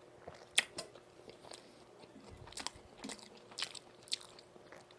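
Close-miked chewing of a pan-fried meat patty (donggeurangttaeng) dipped in tteokbokki sauce, with scattered moist mouth clicks, the sharpest about half a second in.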